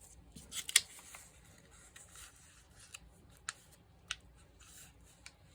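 Paper being handled and cut: soft rustling with a few sharp clicks, the loudest about a second in and two more around four seconds in.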